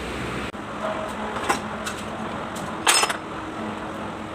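A short, loud metallic clatter about three seconds in, with a couple of lighter clicks before it, over steady background noise.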